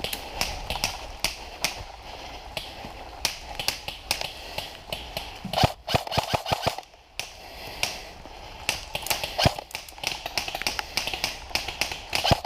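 Airsoft guns firing during a skirmish: a string of sharp, irregular cracks, single shots and short quick bursts.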